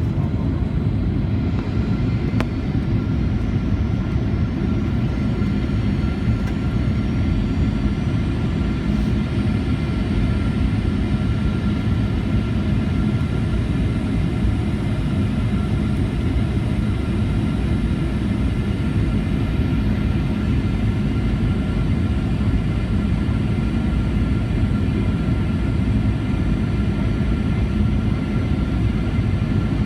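Steady cabin noise inside a Boeing 737-800 airliner in flight: a low rumble of airflow and CFM56-7B engines with a thin, steady high tone above it.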